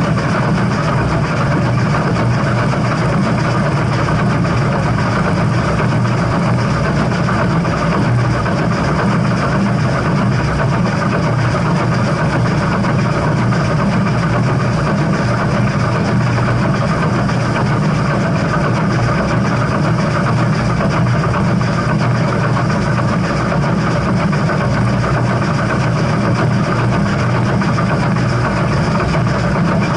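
Steady, loud running noise of a train, with a deep low hum and no distinct beat or chuff, unchanging throughout.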